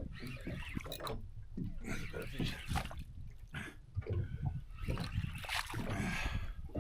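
Water sloshing and slapping against a small boat's hull in irregular splashes.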